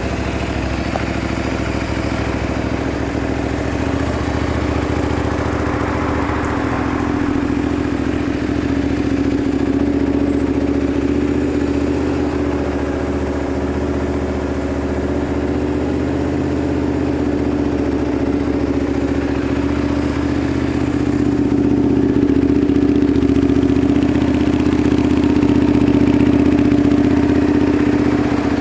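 Honda VTR250 (MC33) V-twin engine idling steadily through an aftermarket muffler, getting slightly louder for a few seconds twice.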